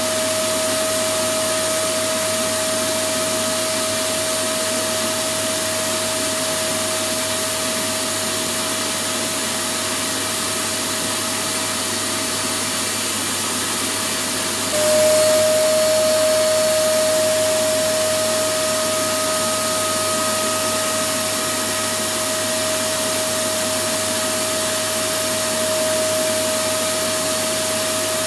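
Electric vacuum cleaner running continuously, a steady rush of air with a constant motor whine over it. About halfway through, the whine drops slightly in pitch and grows stronger, and the overall level rises a little before settling.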